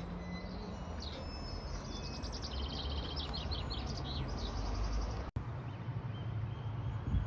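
A small songbird singing a quick series of high, repeated notes for a few seconds, over a steady low rumble of wind on the microphone.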